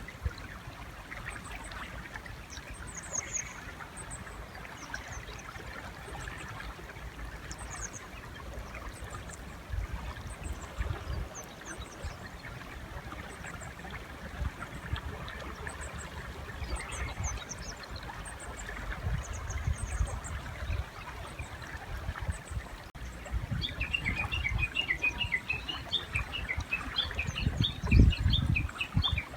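Japanese bush warbler (uguisu) calling beside a river: scattered thin high chirps, then near the end a long, rapid run of repeated notes. A river flows in the background.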